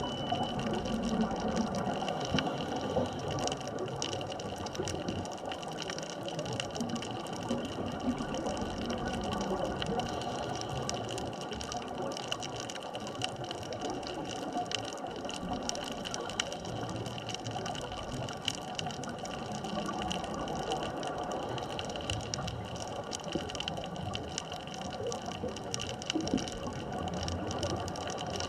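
Underwater ambient sound on a reef at depth: a steady wash of noise with fine, dense crackling and a few faint steady tones.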